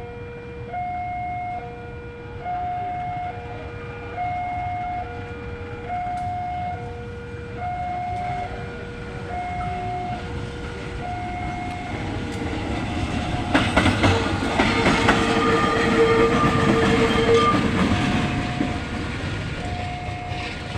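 A two-tone electronic warning alarm alternates high and low, each tone a little under a second. From about 13 seconds a train passes close by with wheels clattering on the rails, and its horn sounds one long steady note for about four seconds before the alarm is heard alone again.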